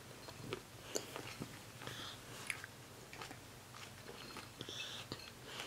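Children quietly chewing cherry tomatoes: faint mouth sounds with scattered small clicks.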